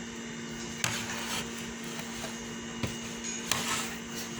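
A steady low hum with a few light knocks and short rustles from things being handled on a table, about one second in, near three seconds and again about half a second later.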